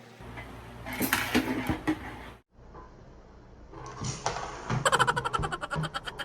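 Plastic selfie-stick tripod being handled: rustling and clattering, a brief break, then a fast run of clicks and rattles near the end as its parts are worked.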